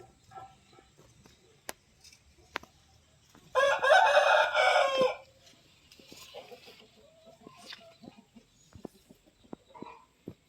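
A rooster crowing once, starting about three and a half seconds in and lasting under two seconds.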